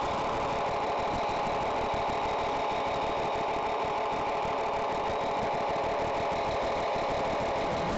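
Simulated engine sound from a DasMikro RC model-boat sound module, played through its small speaker: a steady engine drone with no change in speed.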